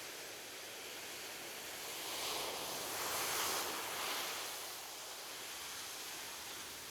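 Ocean waves washing on a beach: a steady hiss of surf, with one wave swelling louder about two seconds in and fading away by about five seconds.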